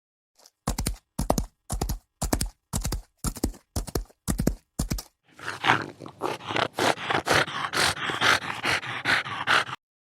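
An animal's sounds: a run of short, evenly spaced noises about two a second, then a longer rough, rasping stretch that stops abruptly near the end.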